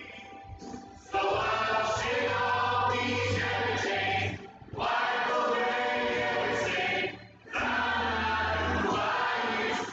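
Church choir and worship team singing a gospel worship song with accompaniment. Three sung phrases are divided by short breaks, with a steady low bass note under each phrase.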